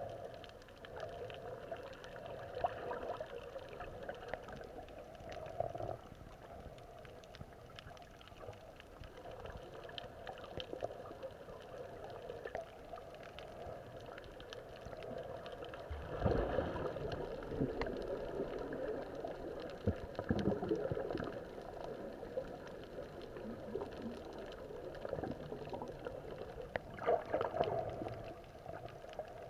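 Underwater sound of water and bubbles, a steady muffled gurgling with louder bursts of bubbling a little past halfway, again a few seconds later, and near the end.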